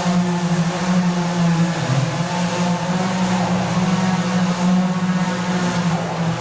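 Steady machine hum with two strong held low tones, dipping in pitch briefly about two seconds in.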